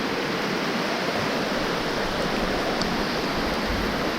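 Creek water rushing over rocks, a steady, unbroken rush.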